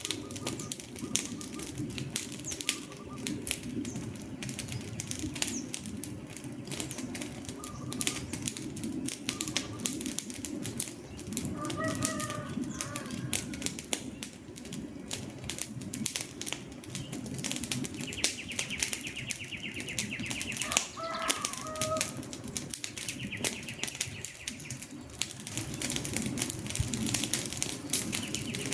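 Wood fire crackling steadily, with many sharp pops and snaps over a low rush of burning. A few short bird calls come through twice, around the middle and again later.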